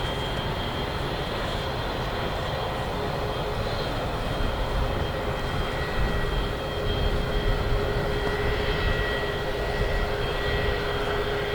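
Boeing 787-9 Dreamliner's twin turbofan engines heard in flight: a continuous jet rumble with a few steady whining tones on top. It grows somewhat louder about halfway through.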